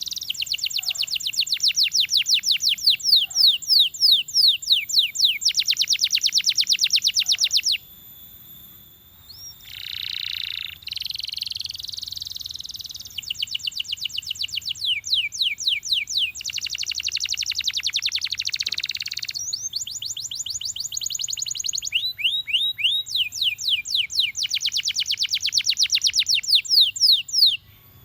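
Belgian canary singing: long, high rolls of very fast repeated notes, each run lasting several seconds, with a brief break about eight seconds in and a pause near the end.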